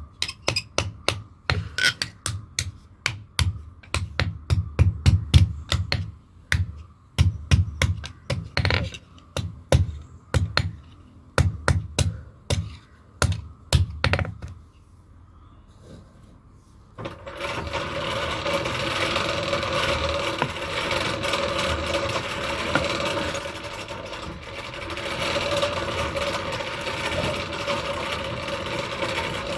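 Hammer blows on hot metal, struck rapidly several times a second for about fourteen seconds. After a short pause a steady grinding noise with a constant hum starts and runs on.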